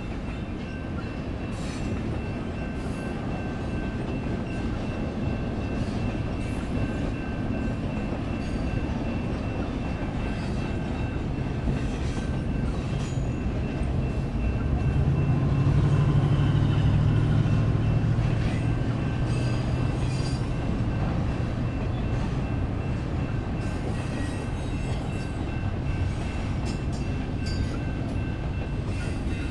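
Long intermodal freight train rolling through a grade crossing: a steady rumble of railcar wheels with irregular clicks over the rail joints. The crossing's electronic bells ring on a steady pitch throughout. A low diesel drone swells in the middle and fades again.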